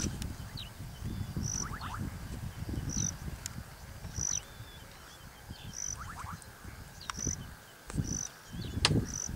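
Wild birds calling: a short high note repeated about every second and a half, with a few thinner chirps and quick trills between, over a low irregular rumble.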